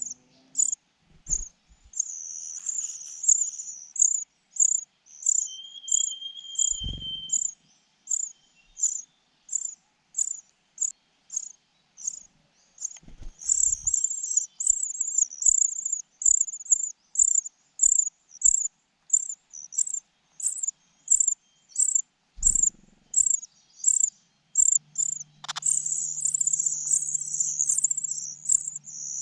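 An insect, cricket-like, chirping in a steady rhythm of about two high-pitched chirps a second, with stretches of denser chirping. A few dull low thumps are heard along the way.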